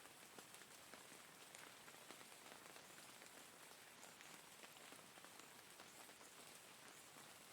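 Faint, steady rain falling, with many separate drops ticking through an even hiss.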